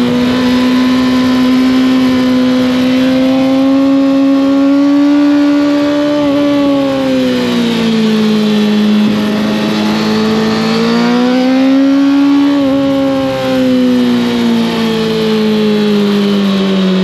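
Kawasaki ZX-6R inline-four with an Arrow exhaust running under way at mid revs, its pitch rising and falling gently. There are brief blips in the note about six seconds in and again near twelve and a half seconds, and the revs then drop steadily as the bike slows toward the end.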